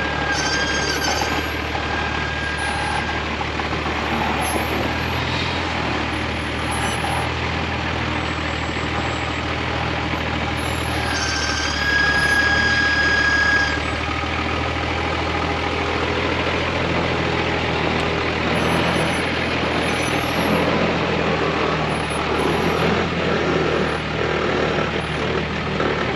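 Unimog truck engine running steadily as the truck drives a track. A high squeal rings out twice over it, briefly near the start and louder for about two seconds around twelve seconds in.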